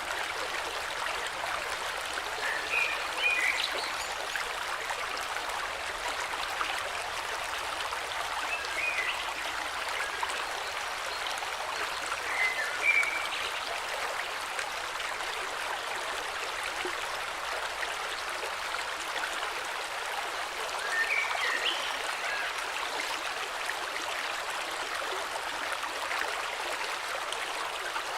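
Flowing river running steadily, with a few short bird chirps at scattered moments.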